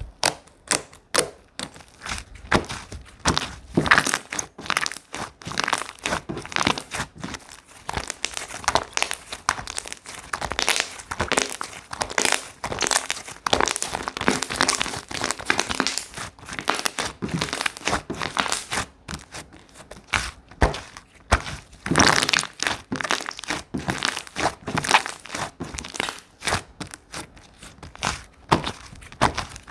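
Slime being squished, folded and pulled by hand, giving a dense run of irregular crackles and small pops.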